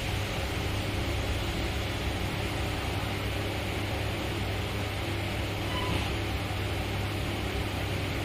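Steady low rumble and hiss of railway running noise, heard from inside a passenger coach, with a red passenger train moving past on the next track.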